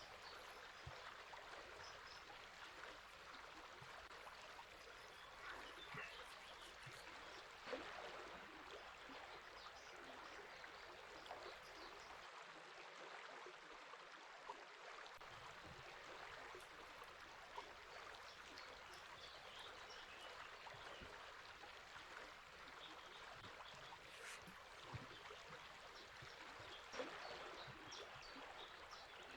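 Faint, steady rush of river water flowing, with small bird chirps scattered through it and a couple of brief ticks.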